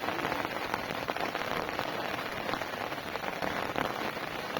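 Heavy rain falling: a steady hiss with a dense patter of drops.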